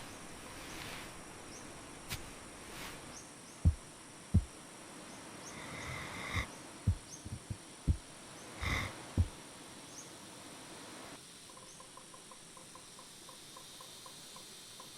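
Rainforest ambience: a steady hiss of insects with small high chirps, broken by a handful of short low knocks and two brief higher calls in the middle. From about eleven seconds in, a faint regular ticking chirp comes in at roughly three a second.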